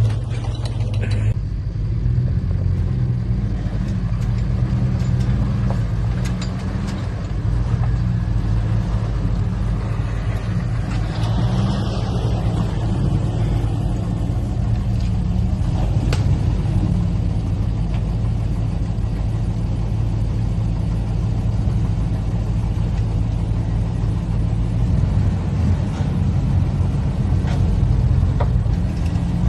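Off-road vehicle engine running steadily at low revs, a constant low drone with little change in pitch.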